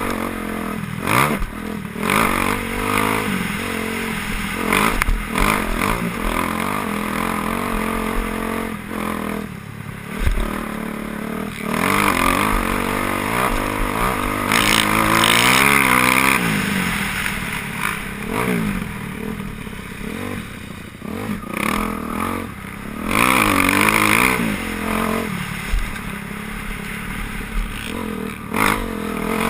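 Motocross bikes racing past, their engines revving up and dropping off over and over as riders work the throttle around the track. The loudest, highest-revving passes come about halfway through and again toward the end.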